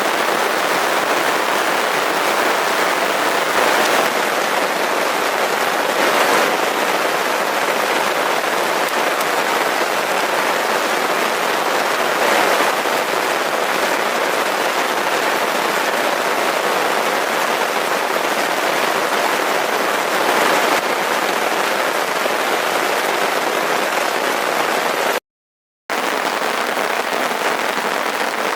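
Steady heavy rain falling, swelling slightly now and then. It cuts out for a moment near the end.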